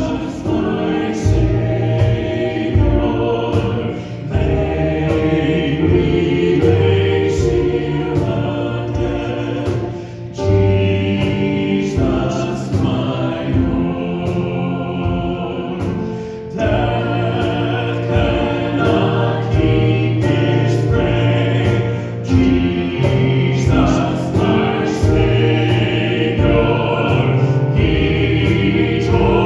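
A church congregation singing a resurrection hymn together, accompanied by instruments.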